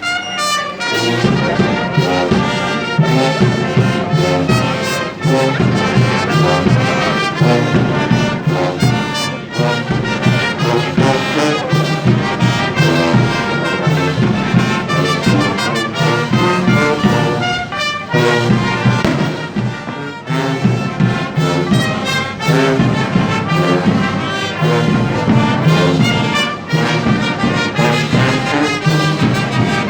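Brass band playing a slow processional march, with trombones and trumpets, starting suddenly and continuing without a break.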